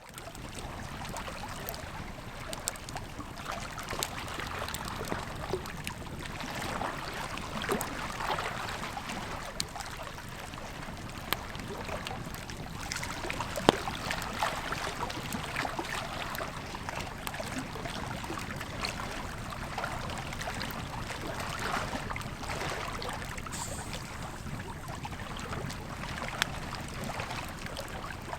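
Campfire crackling, with scattered sharp pops (one louder snap about halfway through), over the steady rush of a river.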